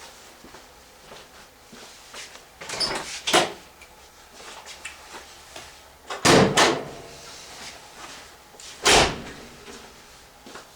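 Several loud clunks: two about three seconds in, a louder double clunk just past six seconds, and one more about nine seconds in.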